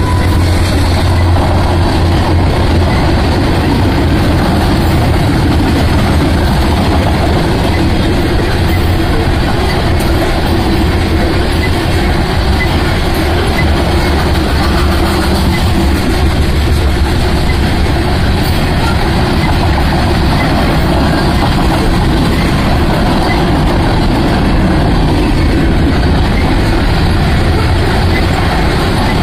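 Loaded freight cars (covered hoppers and tank cars) rolling past close by: a steady, loud rumble of steel wheels on the rails.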